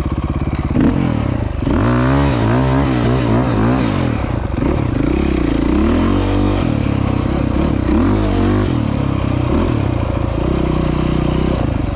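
Dirt bike engine running on the trail, its revs rising and falling again and again as the throttle is worked through soft sand, then steadier near the end.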